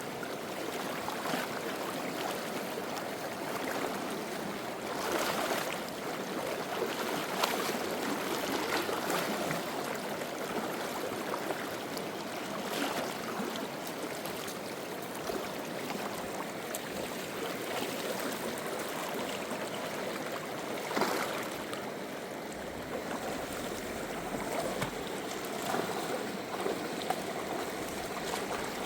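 Steady rush of flowing river water, with a few brief louder surges.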